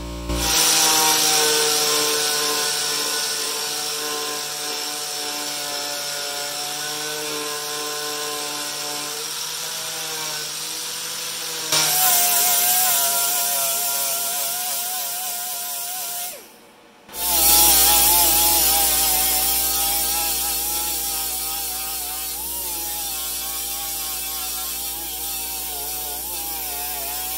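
Power sander running against the fiberglass body and its filler, its tone wavering as it works. It stops briefly about two-thirds of the way through and starts again.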